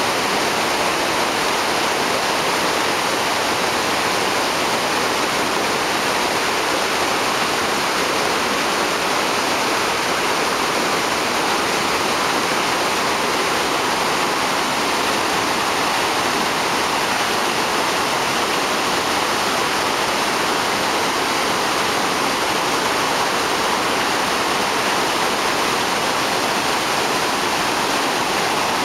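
Mountain stream rushing through rocky rapids, a loud, steady roar of white water that does not change.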